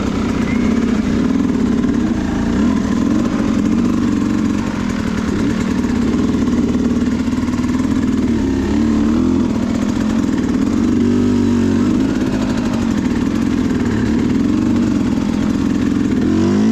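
Dirt bike engine running steadily at low revs, its pitch rising and falling a little with short blips of throttle.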